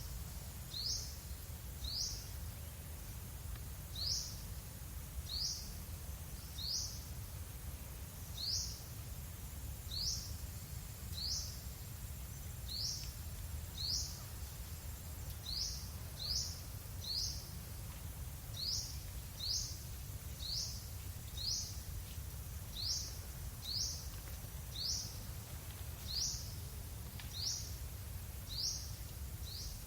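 A bird repeating a short, high, rising chirp, irregularly about once or twice a second, over a steady low rumble.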